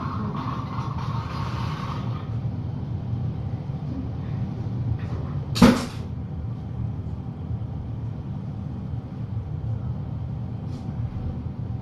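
Steady low room hum, with a brief rustle at the start and a single sharp knock about halfway through.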